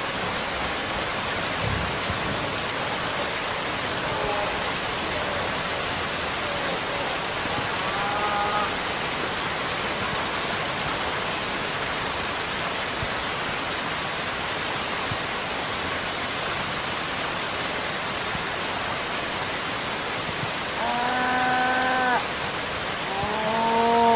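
Steady rainfall, an even hiss of rain falling on a surface. A few short pitched calls rise over it, the loudest two near the end.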